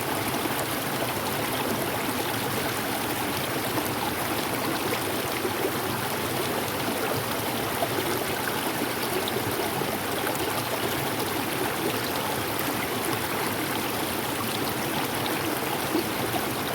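Mountain river rushing, a steady, unbroken water noise.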